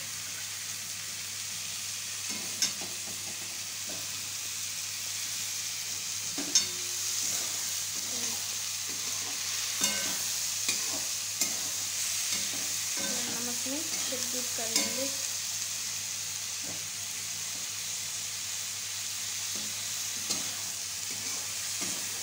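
Sliced onions and tomato frying in hot oil in a metal kadhai: a steady sizzle, with a flat metal spatula scraping and clinking against the pan as the mix is stirred. The sharpest clinks come a little after two seconds in, about six and a half seconds in, and around ten and fifteen seconds.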